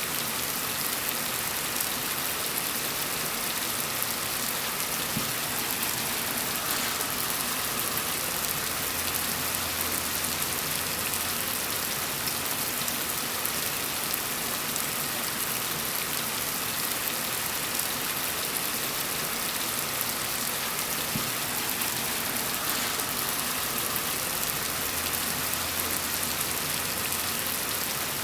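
Steady gentle rain falling, an even hiss of drops that never lets up.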